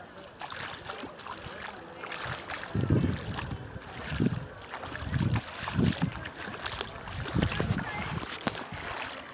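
Wind gusting on the microphone in irregular low rumbles, several times in the middle of the stretch, over a steady outdoor hiss by shallow salt-lake water.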